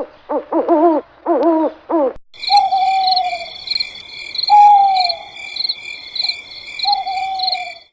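A bird gives short repeated calls, several a second in quick groups. About two seconds in, these cut off abruptly to a steady, high, pulsing trill of insects. Over the trill, a bird gives three long falling whistles.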